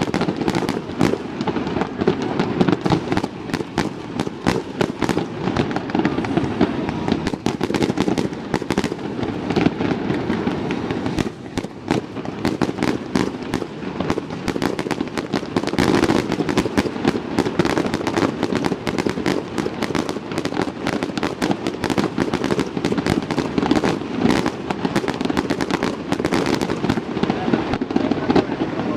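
Aerial fireworks going off in a dense, unbroken barrage of bangs and crackles, many per second.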